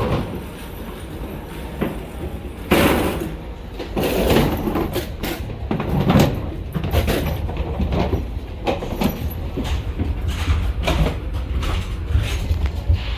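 Aircraft boarding noise: a steady low rumble with scattered knocks and bumps, the loudest about three seconds in.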